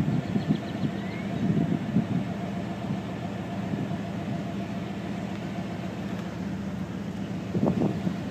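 A vehicle engine idling with a steady low hum, and a brief louder sound about seven and a half seconds in.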